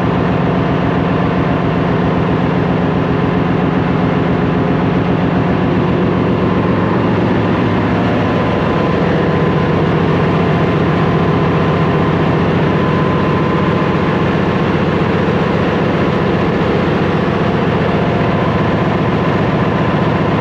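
Steady, loud diesel machinery noise of a ship's engine room, engines running with a fast even pulse and a faint steady whine.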